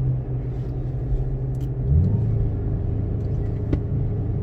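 2006 Mustang GT's 4.6-litre V8 running steadily as the car is driven, heard from inside the cabin; its note shifts briefly about halfway through, then settles again.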